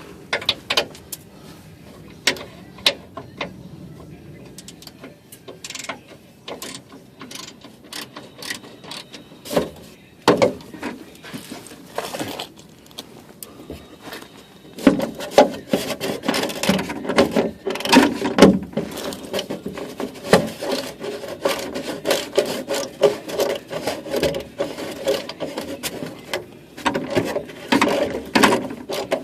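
Hand socket ratchet working small fasteners: scattered clicks and knocks for the first half, then from about halfway long runs of rapid ratchet clicking.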